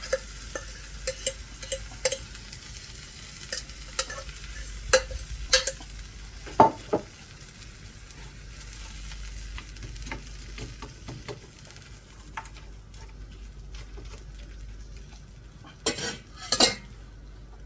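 Chicken frying in a pan with a steady sizzle, while a metal utensil clicks and knocks against the pan again and again. Near the end there are two louder scrapes.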